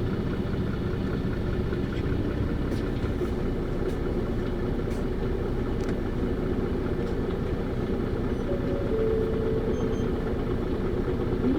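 Isuzu PKG-LV234Q2 city bus's inline-six diesel engine and drivetrain running steadily, heard from inside the passenger cabin.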